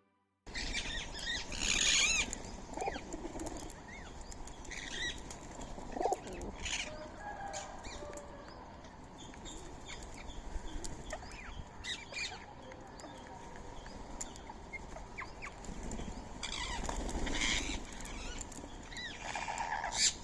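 Birds' wings flapping in several flurries, with short chirps and calls scattered throughout, from Indian ringneck parrots coming and going at their feed.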